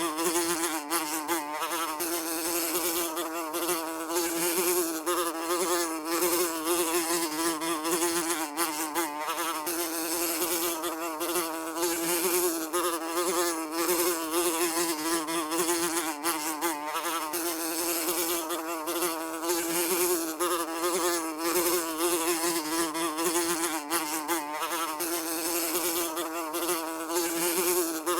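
A fly buzzing continuously, its pitch wavering slightly up and down.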